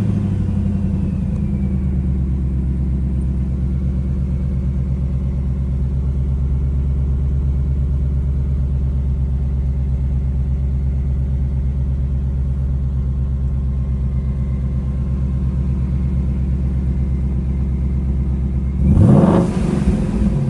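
Ford Mustang Mach 1's 5.0-litre V8 idling steadily while warming up from a cold start, with one short throttle blip near the end.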